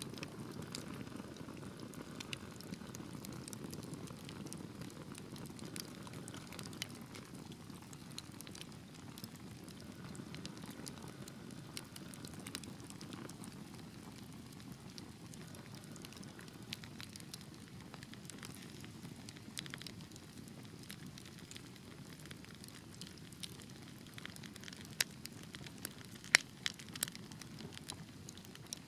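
Wood fire burning in a fireplace: a steady soft flame hiss with scattered crackles, and a run of sharper, louder pops near the end.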